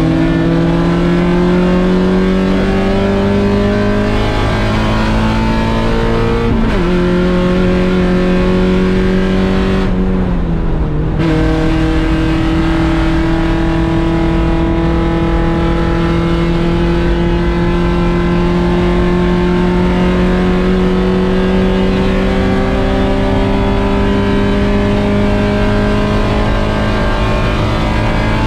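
1.6-litre Mazda Miata race car's four-cylinder engine at full throttle. Its pitch climbs, drops at upshifts about six and a half and ten and a half seconds in, then rises slowly for the rest of the stretch.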